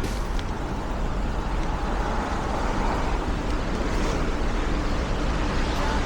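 Steady road-traffic noise with a constant low rumble.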